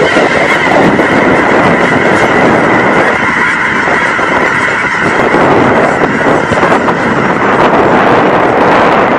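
A large flock of geese honking continuously, many calls at once merging into one loud, dense din.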